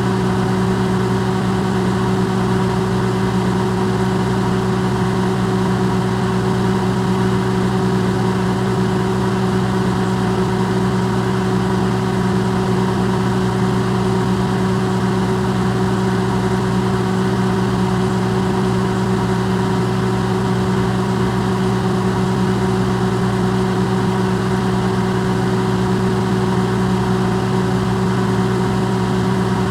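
Electrolux microwave oven running: a steady, unchanging low hum with an even whir over it, amplified.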